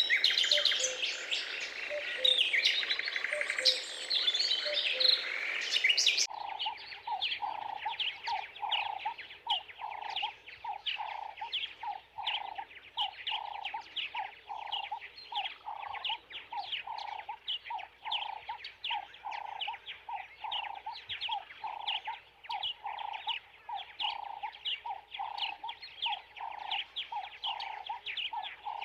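Birds chirping and singing in a busy mix of high notes. About six seconds in, the sound cuts to a steady run of repeated calls, about two a second, with quick high chirps over them.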